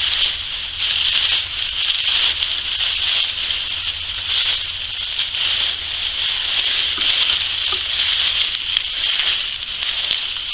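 Dry, dead daylily and artemisia foliage being pulled and handled, rustling and crackling continuously with many small crisp snaps.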